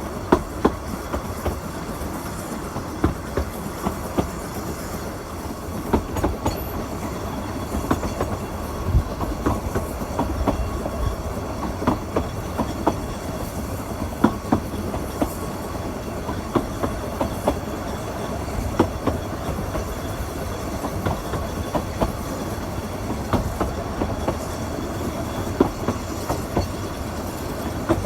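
Narrow-gauge train running along the line: a steady rumble with frequent sharp clicks of wheels over rail joints.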